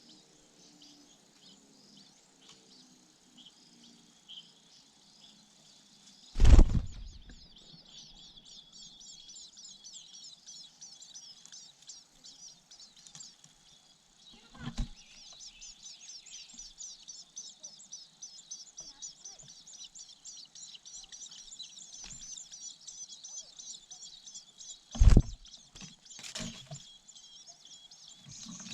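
Long-tailed shrike nestlings giving rapid, high-pitched begging chirps to be fed by the parent. The chirps start right after a loud thump about six seconds in and keep on densely. Another loud thump comes near the end.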